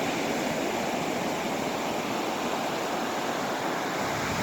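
Atlantic Ocean surf washing steadily onto the beach at low tide, a continuous rushing hiss.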